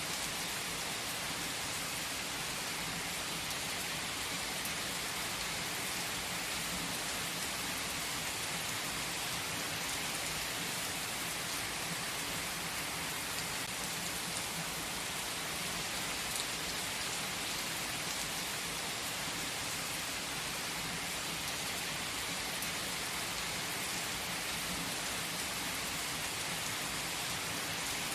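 Steady rain falling, an even hiss with faint scattered drop ticks that does not change.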